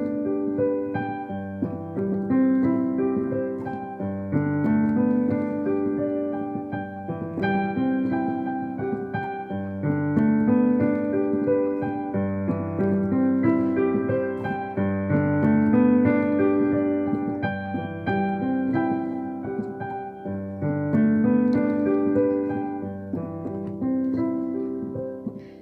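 Instrumental interlude of a slow, gentle ballad played on piano or electric keyboard, with chords and a melody and no singing.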